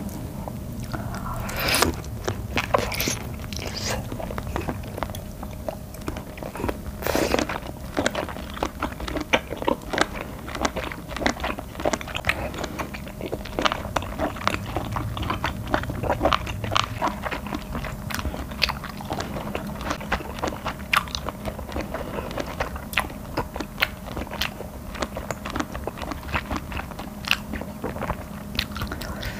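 Close-miked chewing of a mouthful of whole octopus: a long run of small sharp mouth clicks as the tough, rubbery meat needs long chewing, with a couple of louder bites about two and seven seconds in.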